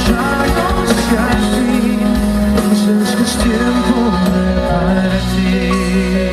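Live band playing the instrumental break of a romantic pop ballad, a wavering melody line over sustained chords.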